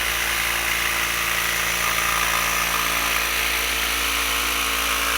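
Handheld electric jigsaw running steadily while cutting through a board.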